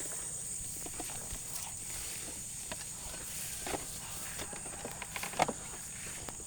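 Footsteps of a walker and dogs on the move: irregular light steps and knocks, with a sharper cluster about five seconds in, over a steady high-pitched hiss.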